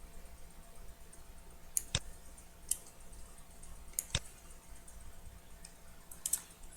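Computer mouse clicking, several sharp, scattered clicks, some in quick pairs, as items are selected and dragged in design software.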